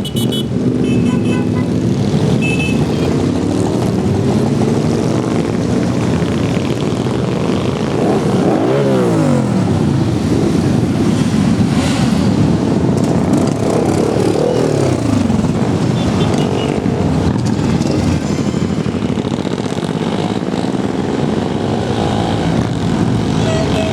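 Many motorcycle engines running together as a parade of bikes rides past, with engine notes rising and falling as individual bikes rev and pass, most clearly about nine and fourteen seconds in.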